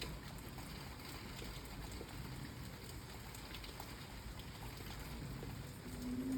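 Steady rain falling, with scattered faint drips and patters. Near the end a brief low hum rises over it.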